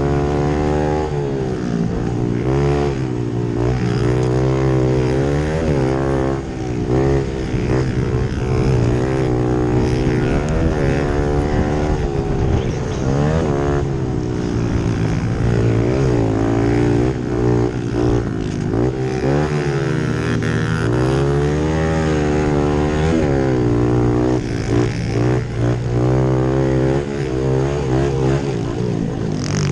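Small single-cylinder pit bike engines racing. The engine note climbs and drops again and again every couple of seconds as the riders accelerate and back off through the corners, over a steady low engine drone.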